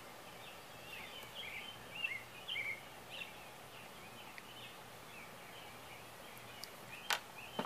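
Faint outdoor ambience with small birds chirping in quick broken phrases during the first few seconds, and one sharp click near the end.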